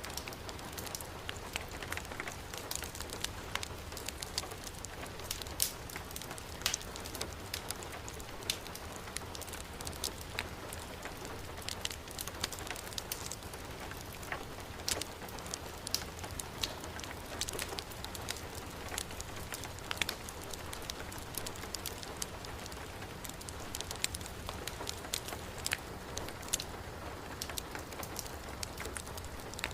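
Heavy rain falling steadily, mixed with the crackle of a wood fire burning in a fireplace: many scattered sharp pops and clicks over the even hiss of the rain.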